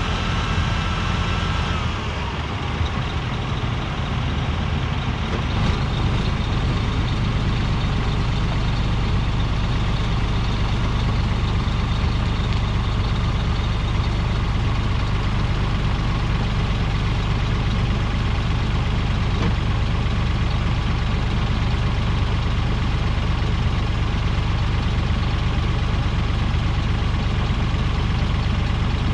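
A heavy engine running steadily at idle, with a high whine that stops about two seconds in.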